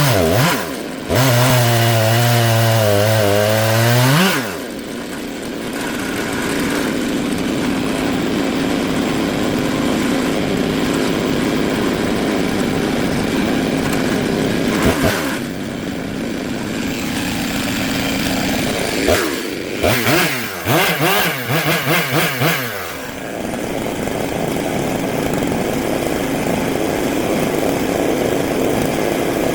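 Stihl MS 661 two-stroke chainsaw on an Alaskan chainsaw mill, running at high revs for about four seconds, with a brief dip about a second in. The throttle then drops back to a lower, steady running note. Near the end it is blipped up and down several times in quick succession before settling again.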